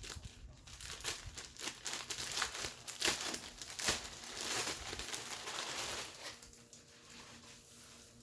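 Packaging crinkling and rustling in irregular handfuls as a garment is unpacked, loudest in the middle and quieter near the end.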